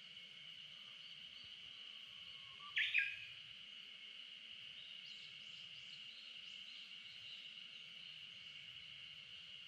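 A bird gives two short, loud calls about three seconds in, over a steady high-pitched drone. Faint bird chirps follow from about five seconds in.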